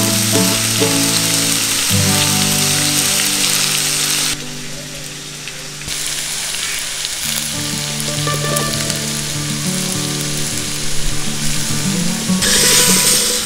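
Tomatoes, dates and aamshotto sizzling in a hot stainless-steel pan as they are stirred with a spatula, over background music. The sizzle drops away about four seconds in, returns a couple of seconds later and grows louder near the end.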